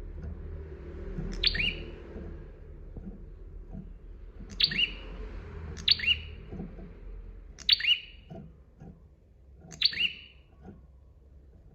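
Prinia (prenjak) giving five loud, sharp call notes a second or two apart, each a quick note sliding down in pitch.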